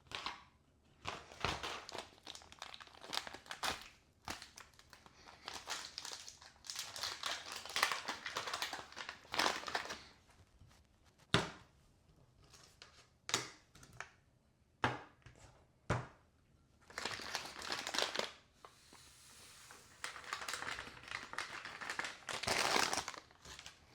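Ration packets crinkling as they are handled, in irregular bursts with some tearing, and a few sharp knocks.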